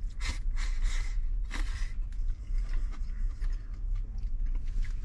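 Eating sounds: utensils scraping and tapping a bowl in short, irregular strokes, over a steady low hum.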